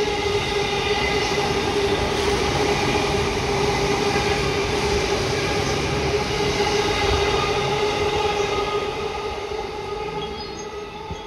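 JR E233 series electric commuter train running through a station at speed: a loud steady rumble of wheels on rail with a sustained high ringing tone over it. The sound fades as the train draws away near the end.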